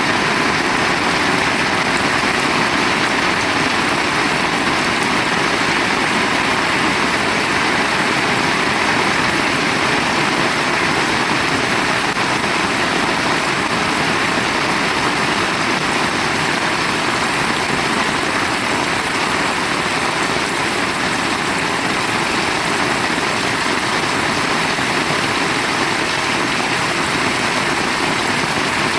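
Heavy rain pouring down, a steady, loud hiss with no let-up.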